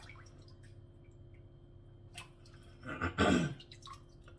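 Water dripping and splashing in a sink while chicken feet are washed: scattered small drips and clicks, a sharp tick about two seconds in, then one louder splash about three seconds in, over a steady low hum.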